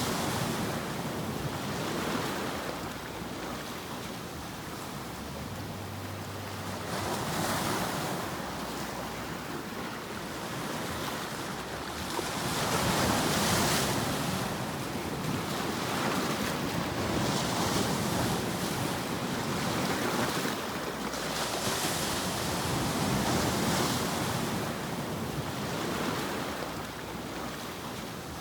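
Continuous white-noise sleep sound, a rushing hiss across all pitches that swells and eases every five seconds or so, like surf or wind.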